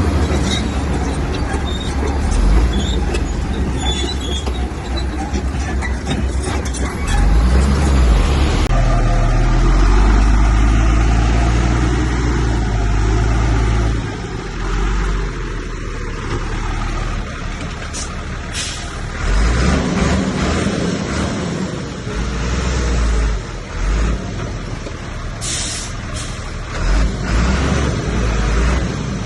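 Diesel engines of heavy earthmoving machinery (a bulldozer and dump trucks) running and working under load. The engine sound changes abruptly about a third of the way in, and two brief hisses come later.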